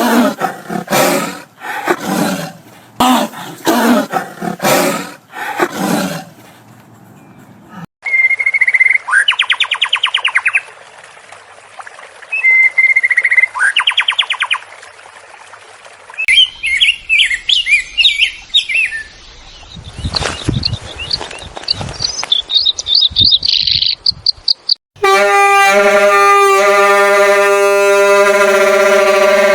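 A sequence of different animal sounds: birds calling and singing with whistled notes and fast trills through the middle, between a run of rapid rough calls at the start and a loud, steady, many-toned call near the end.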